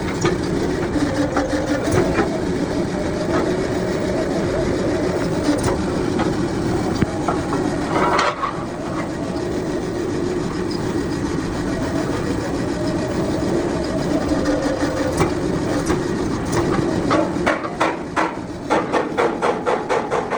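A machine running steadily, with a scraping, rubbing noise and scattered clicks; a quick run of clicks comes near the end.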